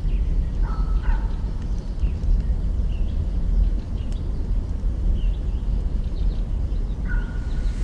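Campfire burning with a steady low rumble and the odd faint crackle, while a bird calls in short chirps: a pair about a second in, a few small ones in the middle, and a longer call near the end.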